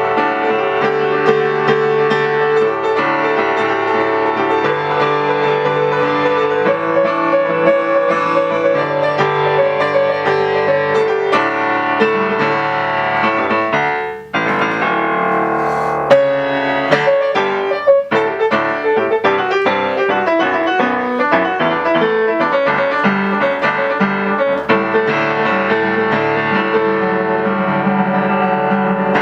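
Solo piano playing a fast, busy original piece with dense repeated notes. About 14 seconds in the playing drops off briefly, then comes back with a sharp accented chord.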